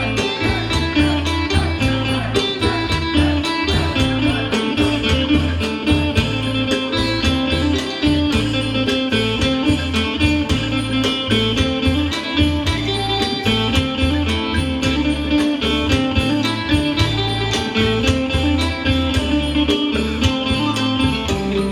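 Isan pong lang ensemble playing an upbeat instrumental piece: plucked string melody lines over a steady, fast drum beat and a heavy bass.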